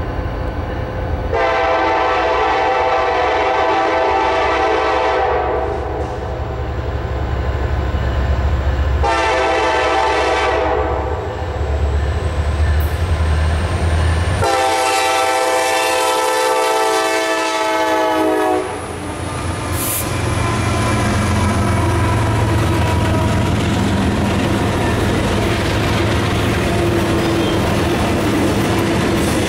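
Norfolk Southern freight train led by EMD SD70ACe diesel locomotives sounding its air horn in three blasts: a long one, a shorter one, then a long final blast as the locomotives pass, over the diesels' low rumble. After that the freight cars roll by with a steady clickety-clack of wheels over the rail joints.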